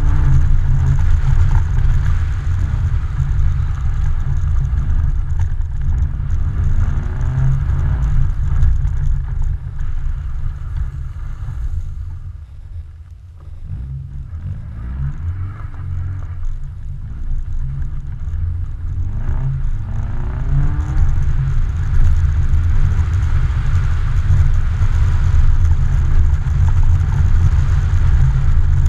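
Car engine running hard, its note rising and falling over and over as the car is slid around on ice, under heavy wind buffeting on a microphone mounted outside the car. About twelve seconds in the engine falls away for a second or two, then pulls up again.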